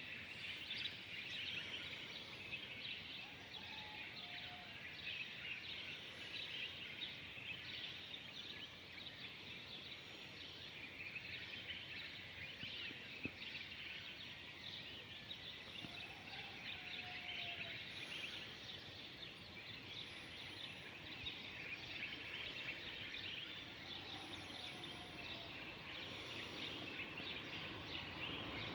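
Dense, steady chorus of many small birds chirping and chattering together, with a few short, lower gliding whistles now and then.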